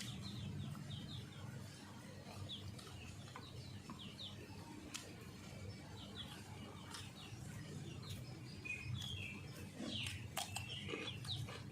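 Small birds chirping: short, repeated high chirps scattered throughout, over a steady low background hum, with a few sharp clicks.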